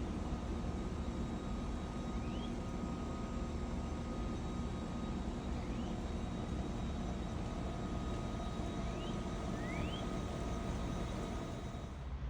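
Outdoor ambience: a steady low rumble, with a bird giving four short rising chirps spread through it.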